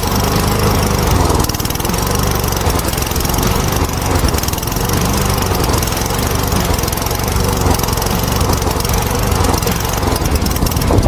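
Small single-cylinder lawn mower engine running steadily at speed, loud and even throughout.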